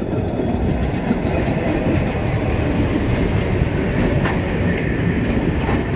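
Railway works train passing close by, its diesel locomotive and wagons rolling through with a steady heavy rumble and the wheels clattering on the track.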